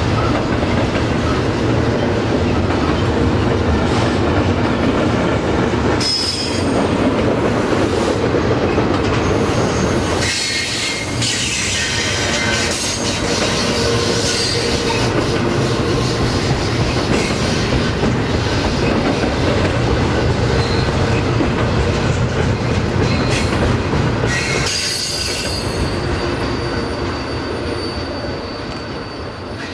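Double-stack container well cars of a freight train rolling past: steady wheel-on-rail noise with high wheel squeal coming and going a few times. The sound fades near the end as the last car goes by.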